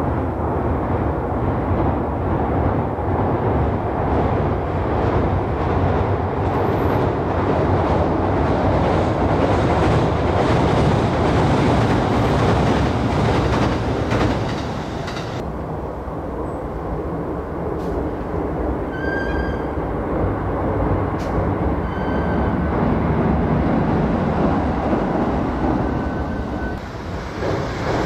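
A train running on the rails, a steady, dense rumble of wheels and running gear. The sound changes abruptly about halfway through and is a little quieter after that. A few brief high-pitched tones come in the second half.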